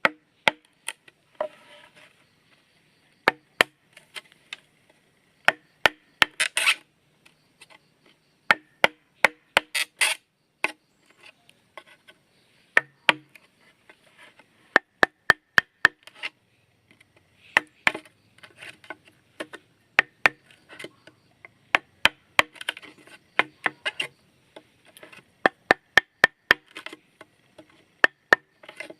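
Repeated sharp knocks of a hand tool striking wood, in runs of several blows a few per second with short pauses between runs.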